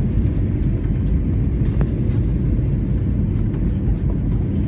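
Steady in-cabin rumble of an Airbus A321 airliner in flight, the engines and airflow heard from a passenger seat as the plane descends toward landing.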